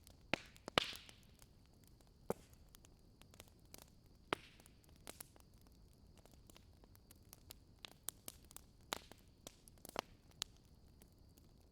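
Wood fire in a fireplace crackling: irregular sharp pops and snaps over a faint steady hiss, the loudest pop about a second in.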